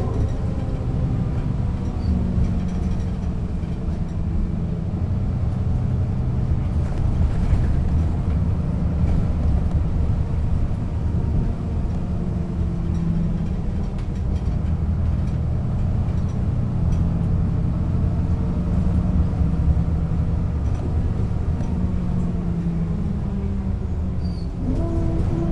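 Diesel engine of a 1996 Setra S 315 UL bus running steadily under way, its pitch rising sharply near the end as the bus speeds up.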